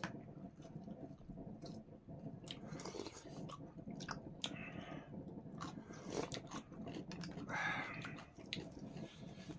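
Close-up chewing and biting as two people eat a meal by hand, with many small wet mouth clicks scattered through it.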